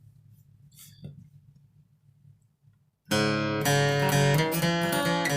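A faint low hum, then about three seconds in an acoustic guitar starts playing the instrumental intro of a song.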